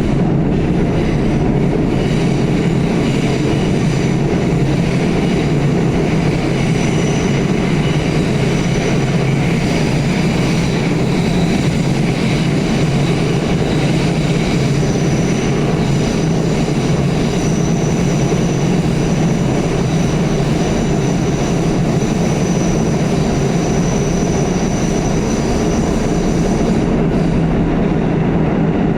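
Pullman-Standard R46 subway car running at speed between stations, a steady loud rumble of wheels on rail. A faint high whine runs through most of it.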